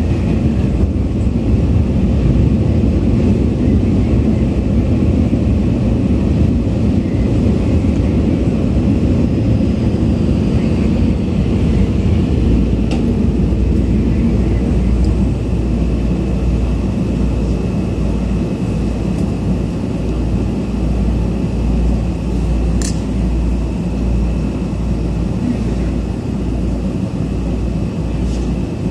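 Cabin noise of a Tokyu 8500 series electric train in a subway tunnel: a steady loud rumble with a faint high whine. A low regular throb comes in during the second half, and there is one sharp click about 23 seconds in.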